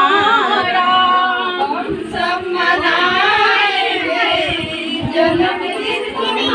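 A woman singing a Hindi birthday song, with long, wavering held notes.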